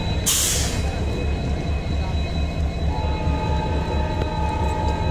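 Passenger train's coaches rolling out of the station: a steady low rumble with a pulsing beat. A short hiss comes about a third of a second in, and a faint thin whine joins about three seconds in.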